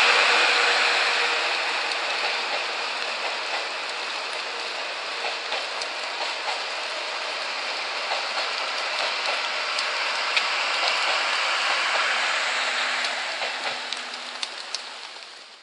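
Passenger coaches rolling away across a concrete viaduct, their wheel noise slowly dying away under a steady hiss of rain, with scattered small ticks; the sound fades out at the end.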